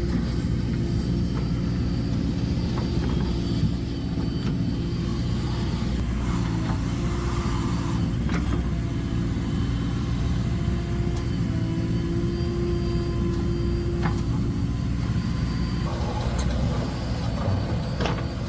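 Heavy diesel engine running steadily under load, with a few short metallic knocks.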